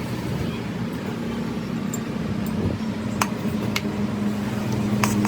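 Petter diesel engine running steadily with an even hum; a couple of short sharp clicks sound over it about three and four seconds in.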